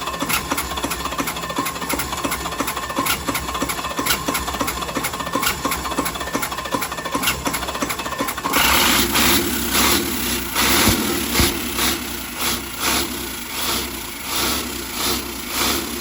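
Restored diesel truck engine running with a fast, even clatter. About halfway through the sound suddenly turns louder and rougher, pulsing about twice a second.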